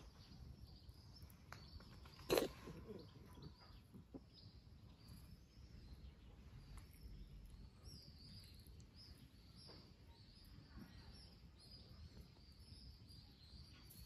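Faint birds chirping, short high calls repeating over quiet outdoor ambience, with one short, sharp, louder noise a little over two seconds in.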